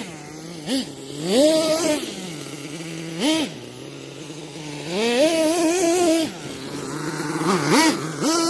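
Nitro RC monster truck's small two-stroke glow engine revving in repeated throttle blips from a steady idle: several short blips and longer held revs in the middle and near the end.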